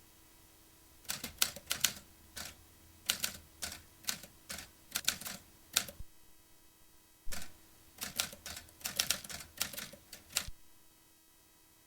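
Vintage typewriter being typed on: quick, uneven key strikes in two runs of a few seconds each, with a pause of about a second and a half between them, stopping a second or so before the end.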